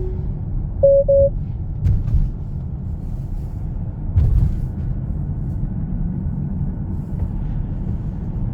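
Steady low road and tyre rumble heard inside a Tesla's cabin while driving. Two short beeps sound about a second in, and there are brief thumps near two and four seconds in.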